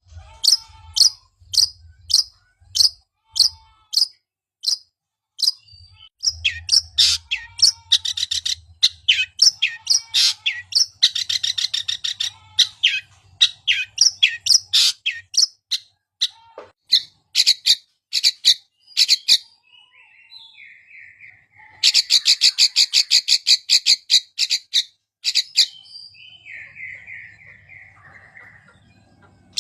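Long-tailed shrike (cendet) song used as a lure recording to prompt a silent bird to sing: sharp, high chirps, spaced out at first, then in fast rattling runs. Twice in the second half there is a series of harsher, falling notes.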